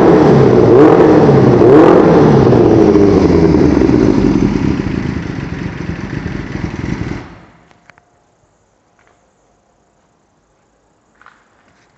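Kawasaki ZXR motorcycle's inline-four engine with a GP-style exhaust, revved several times, then running lower and fading before cutting off suddenly about seven seconds in, followed by near silence.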